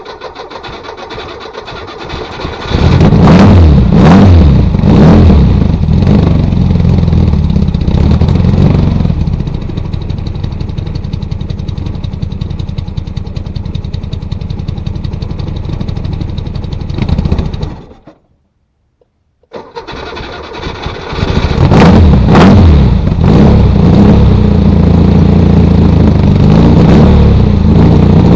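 1966 VW Beetle's air-cooled flat-four with a loud exhaust, cold-started after sitting for over a year: it cranks, catches about three seconds in and is revved several times before settling to a steady idle. Near the middle the sound cuts out for about a second and a half, then the engine cranks and catches again and runs loudly with more revs.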